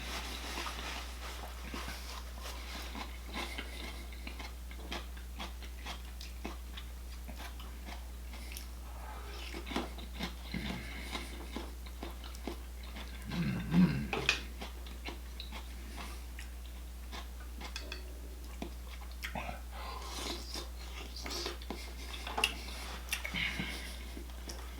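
Close-miked eating sounds: chewing and biting into mussels in garlic butter sauce, with many short wet clicks and a few louder clusters about ten, fourteen and twenty-two seconds in, over a steady low hum.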